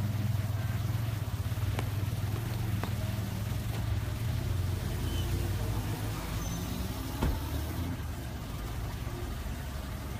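Steady low hum of a car engine under street traffic noise, with a few faint clicks.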